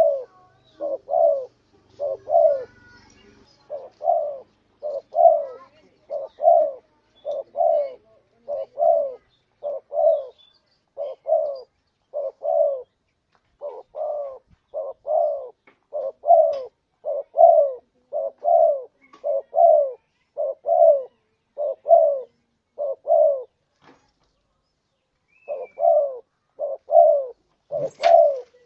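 Spotted dove (tekukur) cooing repeatedly in low, paired notes, a call used to lure other tekukur. There is a short break about two-thirds of the way through, and a sharp click near the end.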